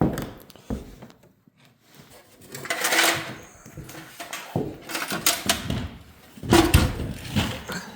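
Irregular clunks, knocks and scraping of metal engine parts and tools being handled and set down, busiest about three seconds in and again near the end.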